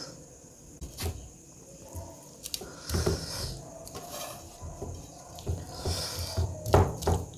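Food and dishes being handled at a meal as eating begins: scattered soft taps and clicks, with a small cluster near the end, as rice and dishes are handled by hand.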